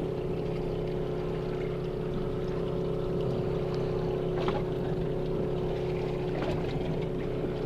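A boat's engine running with a steady hum, with a short click about four and a half seconds in.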